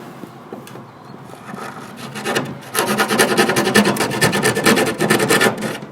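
A tool rasping against wood in a fast, even rhythm. It starts loud a little under three seconds in and stops just before the end.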